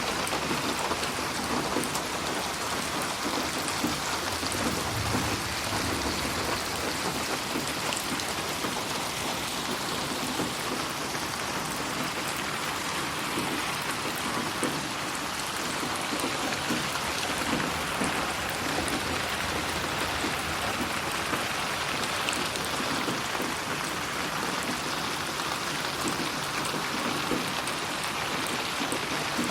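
Steady rain falling, a dense patter of drops on surfaces, processed as '8D audio' so that it pans around the listener.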